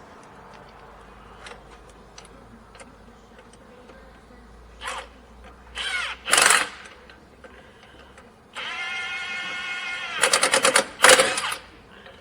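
Cordless impact wrench driving the new self-locking suspension bolts: a few short bursts, then a steady whine of the motor spinning the bolt down, then rapid hammering as the impact takes over.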